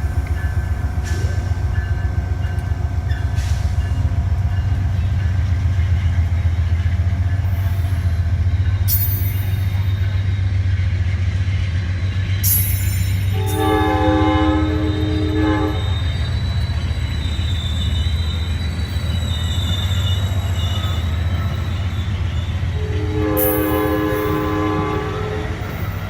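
A train running past with a steady low rumble, sounding its multi-note horn in two long blasts: one about halfway through and another near the end.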